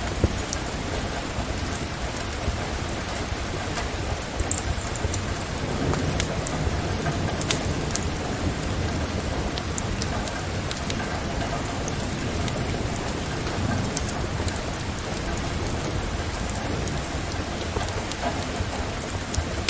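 Steady rain falling, with a low rumble of thunder swelling about a third of the way in and again past the middle. Scattered sharp clicks and crackles sit over the hiss.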